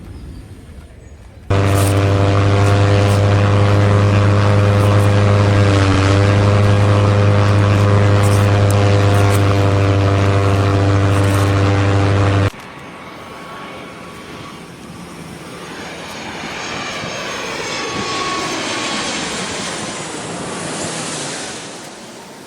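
Toy aeroplane's electronic engine sound: a loud, steady droning hum that switches on abruptly about a second and a half in and cuts off just as suddenly near the middle. It is followed by a quieter, whooshing aeroplane drone that swells and then fades away.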